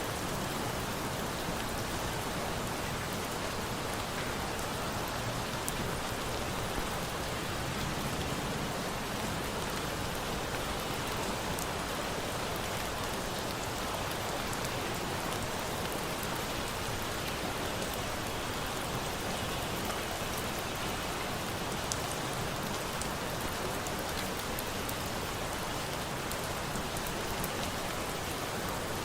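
Steady rain falling, with scattered small sharp crackles of a campfire mixed in, a few of them louder.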